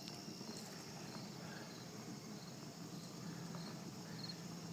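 Evening chorus of insects such as crickets: a steady high-pitched trill with short chirps repeating about twice a second over it. A faint low hum runs underneath.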